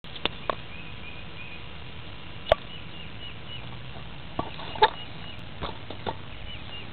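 Small birds chirping in short repeated calls over a steady low hum, with several sharp knocks or clicks scattered through, the loudest about two and a half and five seconds in.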